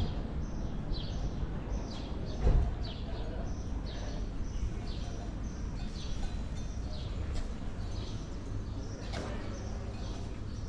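A bird chirping: short high chirps falling in pitch, repeated about twice a second, over a steady low rumble, with a brief thump about two and a half seconds in.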